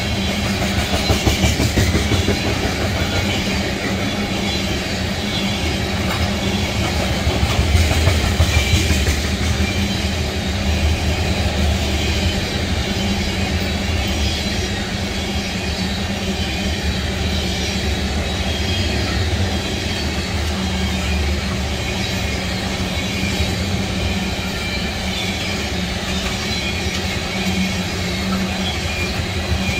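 Freight train of ethanol tank cars rolling past at speed: a steady rumble of steel wheels on rail with clicks over the rail joints, swelling briefly about a second in and again around eight seconds.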